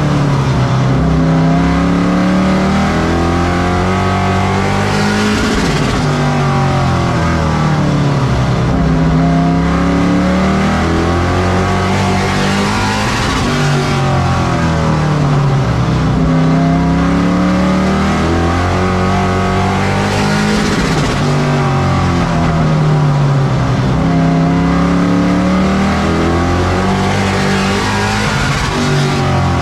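Race truck engine at full throttle lapping a short oval. The pitch climbs through each straight and drops sharply as the driver lifts for the turns, about every seven to eight seconds.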